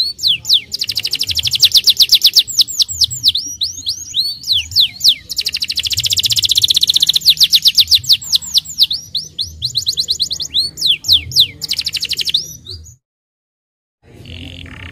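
Domestic canary singing: fast rolling trills alternating with rapid sweeping chirps. The song cuts off abruptly into silence about 13 seconds in, with a fainter sound returning just before the end.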